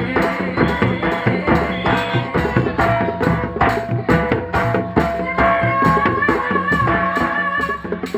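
Live jaranan ensemble music: quick, steady hand-drum strokes under sustained melodic tones. A high held melody line comes in about five seconds in.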